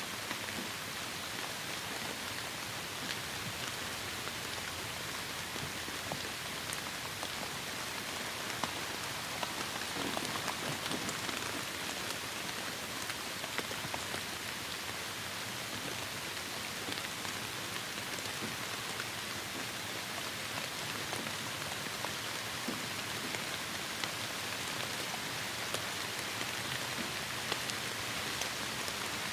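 Heavy rain falling steadily, a dense even hiss dotted with sharper individual drop impacts.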